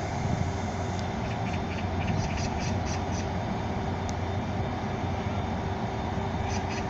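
Korail Mugunghwa passenger train rolling past, a steady low rumble with a faint steady hum. Light clicks come from the wheels or running gear about two to three seconds in and again near the end.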